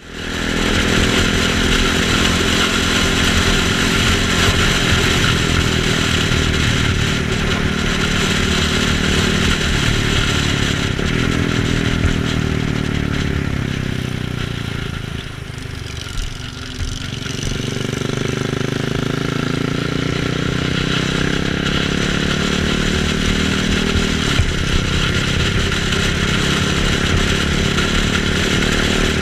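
KTM 690 Duke single-cylinder motorcycle engine running under way, over steady wind and road noise. About halfway through the engine note drops as the bike eases off, then climbs again as it accelerates.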